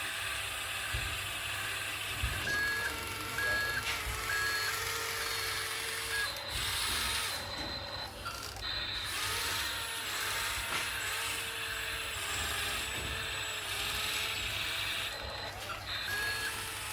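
Vehicle reversing alarm beeping: three short, evenly spaced beeps about two and a half seconds in, and another near the end. Under it runs a steady, wavering machine whine with background noise.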